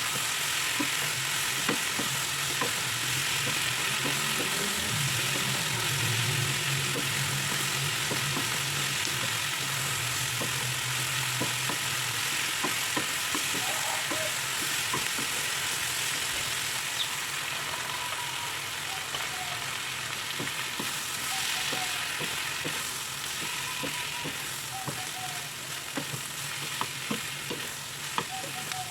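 Food stir-frying in a hot pan: a steady sizzle with frequent small clicks and scrapes of the spatula stirring. A low hum sits underneath for several seconds near the start.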